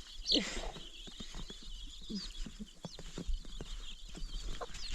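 Faint animal calls, bird-like: a short chirping call soon after the start and a lower call about two seconds in, with scattered small knocks.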